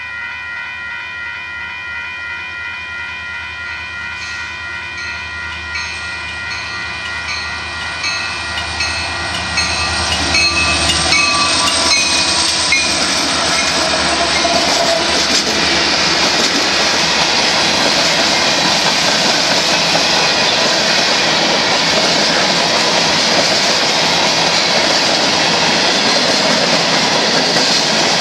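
Union Pacific freight train approaching and passing. A sustained chord of tones, with a regular high ping about twice a second, fades out about twelve seconds in. The rumble and clatter of the hopper cars rolling by grows louder and then holds steady.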